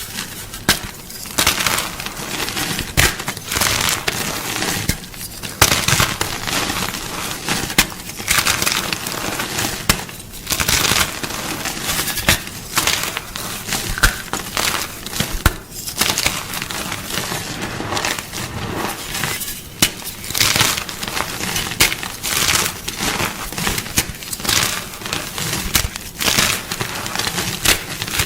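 Blocks of gym chalk being crunched close to the microphone: a steady run of irregular dry crunches and crackles, several a second, with no regular rhythm.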